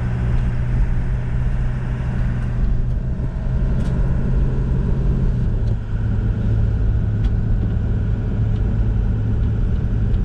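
Motor vehicle driving: a steady engine drone with road noise, its low hum dropping slightly in pitch about five and a half seconds in.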